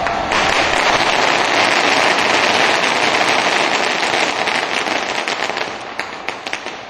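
Rapid, dense crackling of ignition firecrackers set off to light a bonfire. They run continuously for about five seconds, then thin out to scattered pops. The pyrotechnics go off with only noise and the bonfire does not catch: a misfire.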